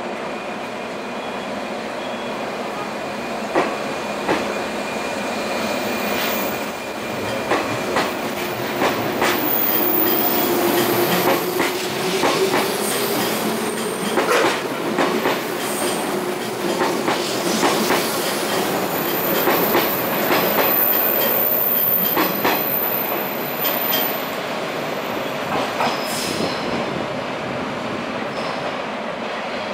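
A JR East 485-series electric multiple unit pulling out and passing close by, its wheels clacking over rail joints and points. A whine rises in pitch midway as it gathers speed, and the sound eases off as the train draws away.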